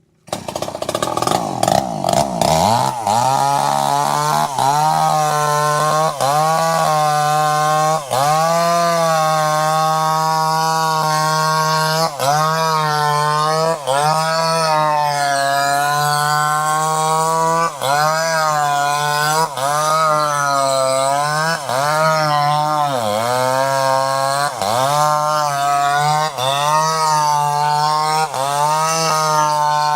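Chainsaw engine running at high revs. It starts abruptly, its pitch swoops up and down over the first couple of seconds, then holds steady with brief dips in engine speed every second or two.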